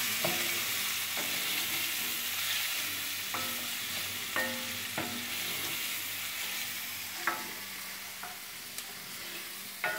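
Chopped onion, garlic and hot pepper flakes sizzling in oil in a pot over a turned-down gas flame, while a wooden spoon stirs and scrapes them, knocking now and then against the pot. The sizzle gets gradually quieter.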